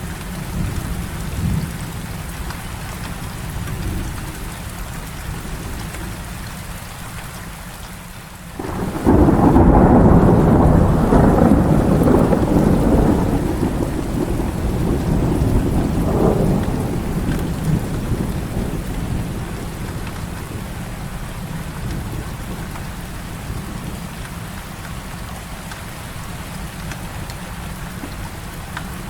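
Heavy rain falling steadily. About nine seconds in, a loud clap of thunder breaks and rumbles on for several seconds, swelling once more before dying away into the rain.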